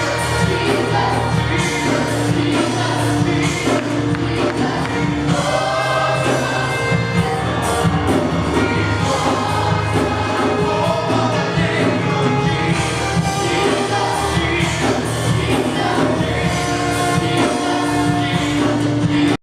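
Live church worship music: a band playing with a group of voices singing a gospel song, continuous throughout.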